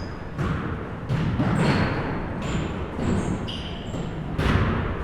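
Basketballs bouncing on a gym floor in irregular, separate thuds, the loudest about four and a half seconds in, with short high sneaker squeaks in between.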